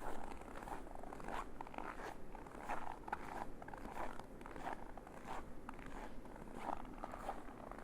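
Footsteps crunching in fresh, cold snow at a steady walking pace, about three steps every two seconds.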